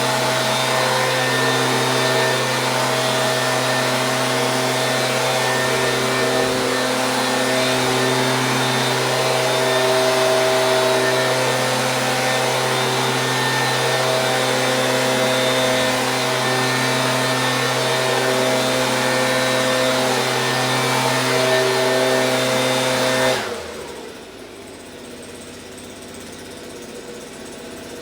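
Stihl BG 86 handheld leaf blower's small two-stroke engine running steadily, then stopping abruptly about 23 seconds in.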